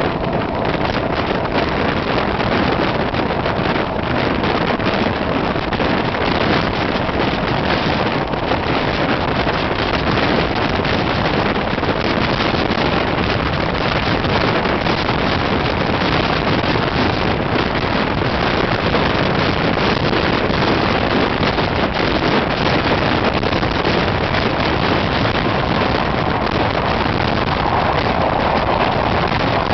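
Odessa–Moscow passenger train in motion: a steady, loud rush of running noise with wind buffeting the microphone, growing brighter near the end.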